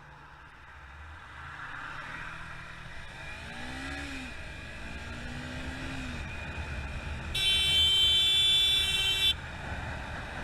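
Road traffic with vehicle engines running, a couple of engines briefly rising and falling in pitch. A loud steady vehicle horn blast starts about seven seconds in and lasts about two seconds before cutting off.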